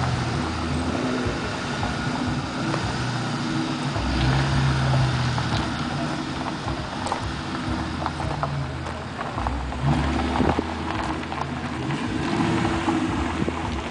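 Ford Mustang Mach 1's V8 running at low revs as the car creeps forward, its note swelling with light throttle about four seconds in and again over the last few seconds.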